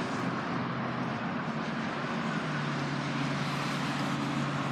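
Steady outdoor vehicle noise with a low, even hum that grows a little stronger about halfway through.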